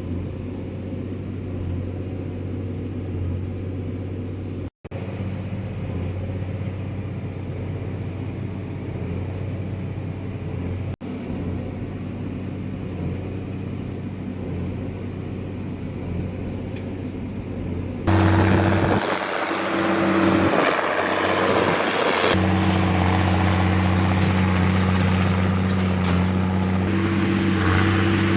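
Tractor engine running at a steady speed, a low even hum. About two-thirds of the way through the sound jumps louder and rougher, with a broad rushing noise and a higher tone added over the engine.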